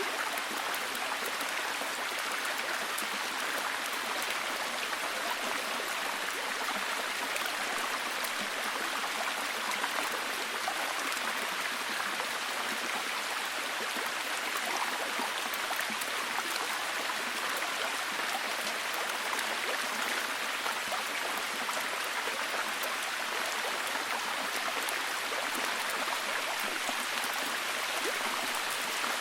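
Steady heavy rain: an even hiss of falling water, dense with small drop ticks, holding the same level throughout.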